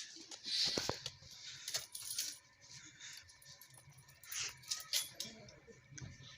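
Light metallic clicks and clinks of tools and small parts being handled, loudest about a second in and again near five seconds in.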